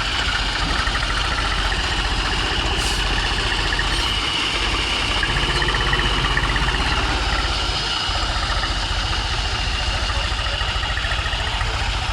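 Tractor diesel engine running steadily with an even, rapid low throb, a steady high-pitched whine over it.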